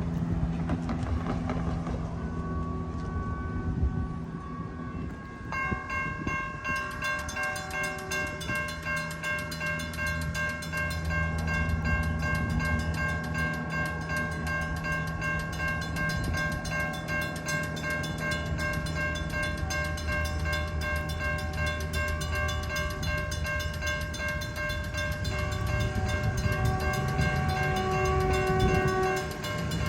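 Railroad crossing warning bells ringing rapidly over the steady low running of a train. A train horn sounds in short blasts near the end.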